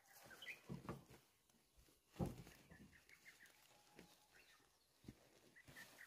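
Near silence with a distant bird calling in short, high notes, a quick run of them about three seconds in. A soft thump comes about two seconds in.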